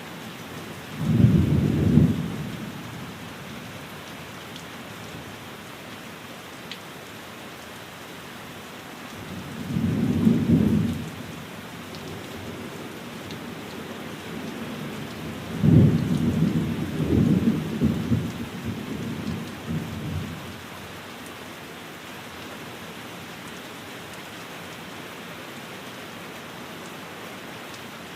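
Steady rain falling on a window, with three low rolls of thunder: a short one about a second in, another around ten seconds in, and a longer rolling one that rumbles on for about five seconds past the middle.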